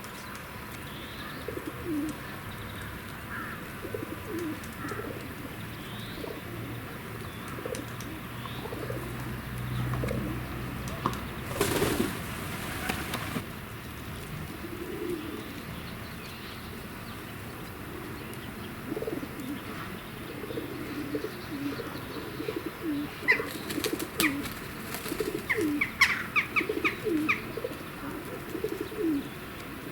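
Pigeons cooing over and over in low, soft coos. Just before halfway a brief rush of noise passes over a low hum, and near the end a small bird gives a quick run of high chirps.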